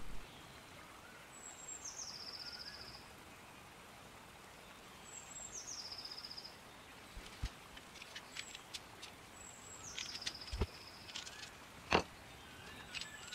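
A bird's high call repeated three times, about every four seconds: a short downward slide into a fast trill. Between the calls come a few sharp clicks and taps of the aluminium rail and roller bearings being handled, the loudest one near the end.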